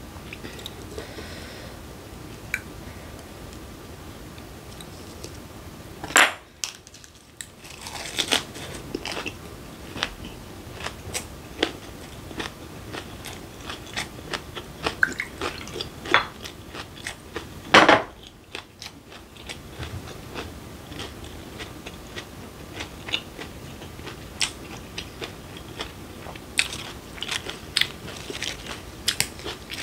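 Close-miked chewing and crunching of lettuce-wrapped raw fish and squid sashimi, with many small sharp mouth clicks all through. Two louder sharp sounds come about six and eighteen seconds in.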